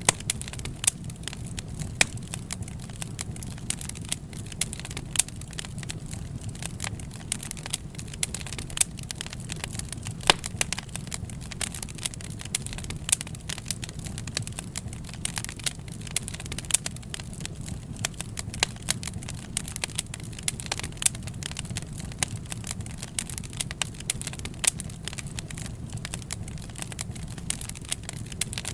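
Wood fire burning, with dense irregular crackles and sharp pops over a low steady rumble.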